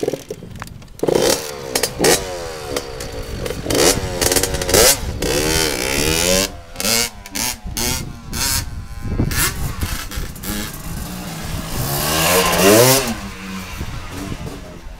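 Dirt bike engine revving up and down over and over, its pitch climbing and falling several times, with short rattles in between. The loudest, highest rev comes near the end.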